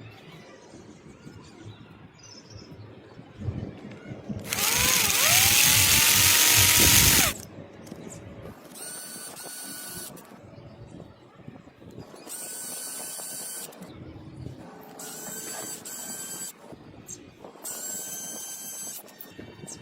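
Small 7cc vertical engine spinning up. It gets loud for about three seconds with a whine that rises and then holds steady, then runs in four short bursts of steady whine with quieter gaps between.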